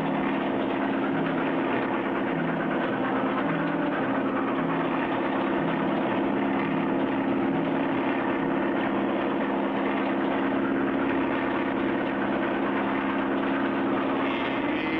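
Steady engine-drone sound effect of a light plane and a speeding train, running without a break, with a low regular pulse under the drone.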